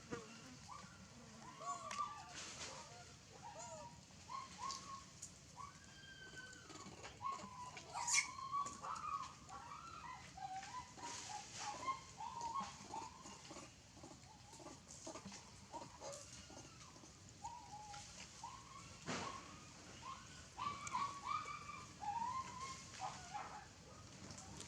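A baby monkey squeaking and chirping: many short, high, rising-and-falling calls in quick clusters, with a few sharp clicks in between.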